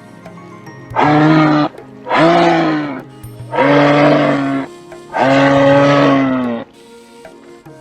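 An animal gives four loud, drawn-out calls in a row, each under a second and a half long, over quieter background music.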